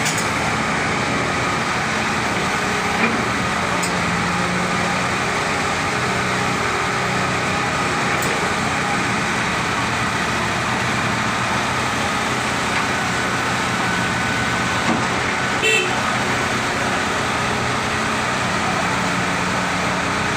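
Caterpillar excavator's diesel engine running steadily as it works loading dirt onto a truck, with a few short knocks.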